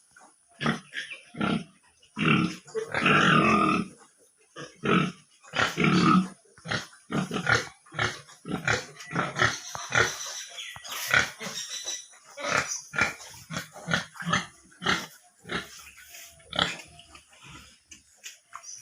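Pigs in a piggery grunting in many short, irregular calls, with a few longer, louder calls in the first six seconds.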